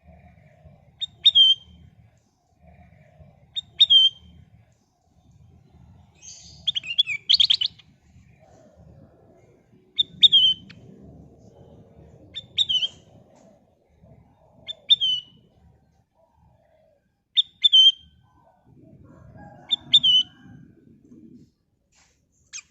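A kutilang emas bulbul calling. Short, sharp notes with a quick downward hook come about every two and a half seconds, with a longer rapid run of notes about seven seconds in.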